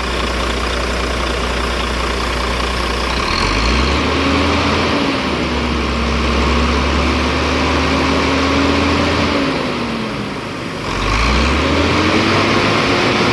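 Volvo truck diesel engine idling, then revved up about three seconds in and held for several seconds, dropping back to idle and revving up again near the end. A free-rev test after a clogged diesel supply hose that had caused loss of power was cleared; the engine pulls up cleanly.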